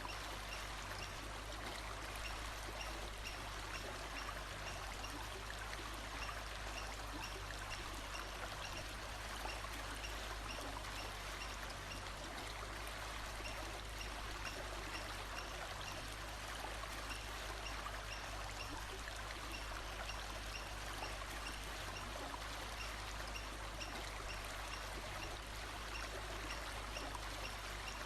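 Steady rushing of flowing stream water, with faint short high chirps repeating every second or so.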